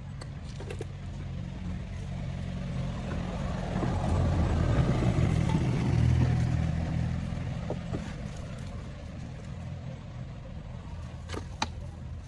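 A motor vehicle engine running with a low, steady hum. It grows louder to a peak about five seconds in, then eases off. A few sharp clicks come near the end.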